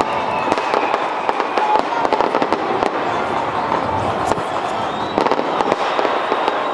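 Aerial fireworks display going off in a steady run of bangs and crackles, over the noise of a large crowd.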